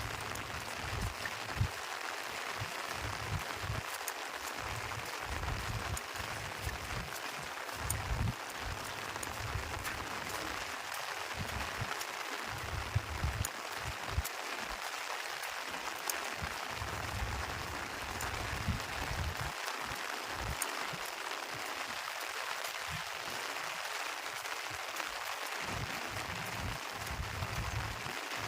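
Steady rain falling, an even hiss with scattered faint drop ticks, broken by irregular low rumbles on the microphone.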